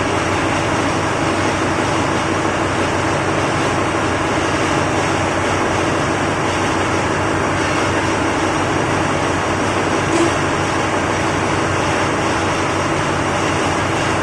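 Sulzer 6RTA48T-B six-cylinder two-stroke slow-speed marine diesel main engine running steadily, a loud, even engine-room din with a constant hum underneath.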